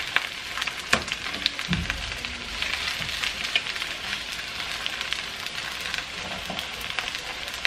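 Onion halves, garlic cloves and whole tomatoes sizzling in a little avocado oil in a stainless steel skillet, browning, with a steady hiss and a few sharp crackles.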